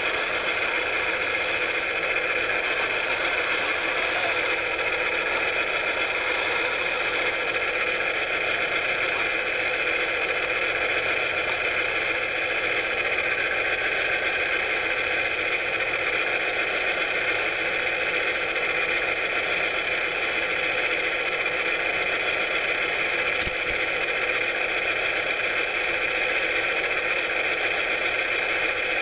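Steady, even mechanical hiss-like noise that does not change, with a single short click near the end.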